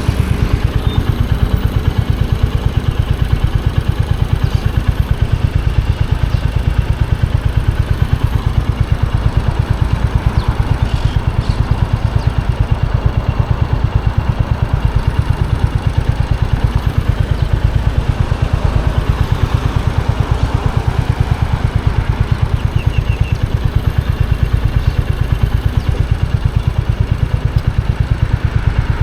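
Royal Enfield Hunter 350's single-cylinder engine and exhaust running steadily at low revs, with an even, rapid beat and no revving.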